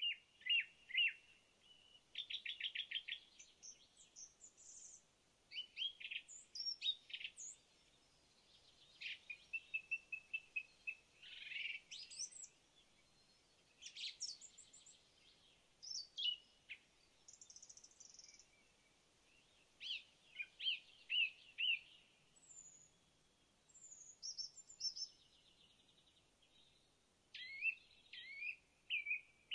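Songbirds singing and calling in a conifer forest: a varied run of high-pitched chirps, trills and whistled notes with short pauses between them.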